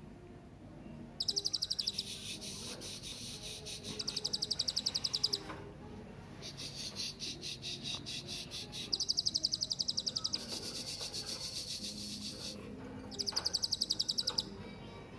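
Serindit (hanging parrot) calling in bursts of rapid, high-pitched chirping trills, each about a second or more long with short pauses between, about six times.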